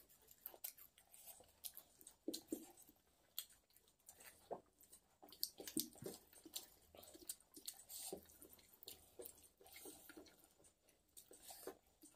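Faint chewing of a mouthful of rice and fish eaten by hand, with irregular small clicks and wet mouth sounds.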